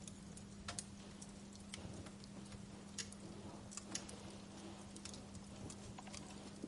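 Wood fire crackling: irregular sharp pops and snaps, a few a second, over a soft hiss, with a steady low hum underneath.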